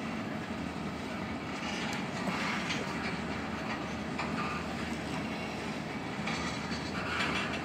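Tank cars of a freight oil train rolling past at speed: a steady rumble of steel wheels on rail, with a clatter that flares up every second or two.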